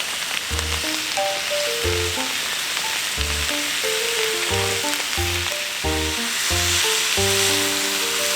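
Food sizzling as it fries in a pan, a steady crackling hiss, over background music with a steady bass line and melody.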